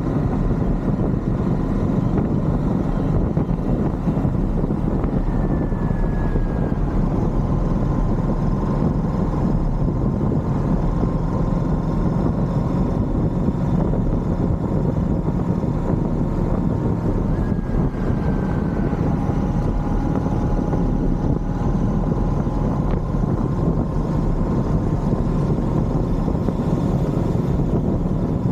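Royal Enfield Shotgun 650's 648 cc parallel-twin engine running at a steady cruise, mixed with a constant rush of wind and road noise.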